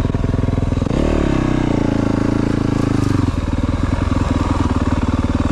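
Yamaha YZ450F dirt bike's single-cylinder four-stroke engine running under way. About a second in the throttle opens and the pitch climbs, holds higher for about two seconds, then drops back to a lower steady pull.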